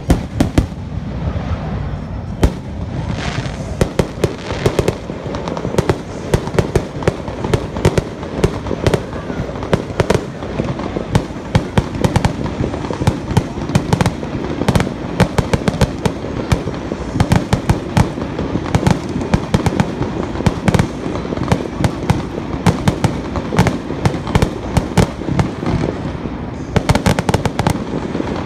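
Fireworks bursting in rapid succession: a loud bang right at the start, then a dense, unbroken run of bangs and crackling.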